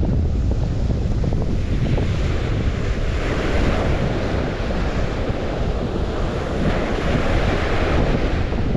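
Waves washing onto the St. Lawrence shore, the wash swelling twice, under a constant heavy rumble of wind buffeting the microphone.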